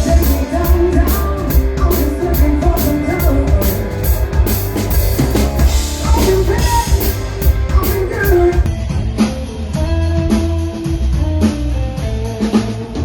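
Rock music from a band with drum kit, bass, guitar and singing, played with a steady beat; the sound turns duller about nine seconds in.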